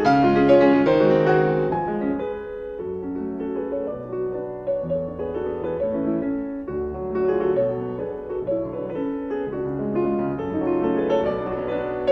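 Background piano music: sustained chords and melody notes played steadily, with no other sound standing out.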